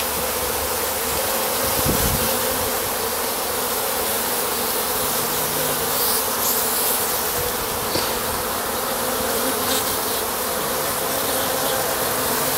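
Honeybees buzzing steadily around an opened top-bar hive during an inspection. A lower, closer buzz comes and goes as individual bees fly near.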